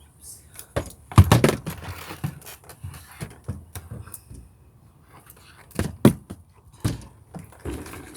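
Handling noise from vacuum-cleaner parts: a run of knocks, clicks and rustles, with the loudest thump about a second in and more sharp knocks near the end.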